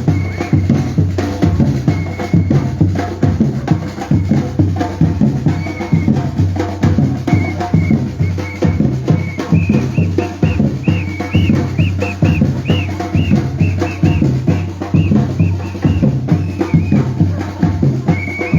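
Batucada percussion ensemble drumming a fast, steady rhythm: deep bass drums under dense snare and wood-block strikes.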